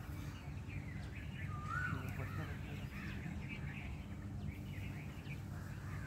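Birds chirping and calling, with a few short rising notes, over a steady low background hum.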